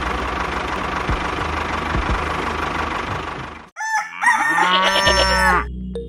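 A small engine runs steadily, then cuts off abruptly about three and a half seconds in, and a rooster crows.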